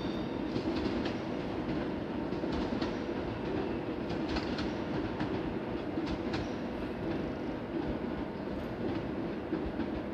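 PKP Intercity ED161 (PESA Dart) electric multiple unit running away along the track: a steady rail rumble with scattered clicks of wheels over rail joints and a faint steady hum.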